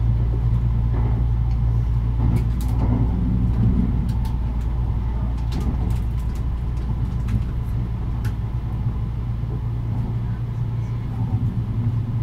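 Kintetsu 80000 series 'Hinotori' electric multiple unit running at speed, heard inside the car: a steady low hum with rumbling running noise and scattered light clicks.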